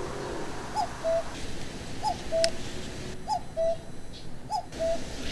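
A bird repeating a two-note call about every second and a half, a short higher note followed by a slightly lower, held one. There is a faint click about halfway through.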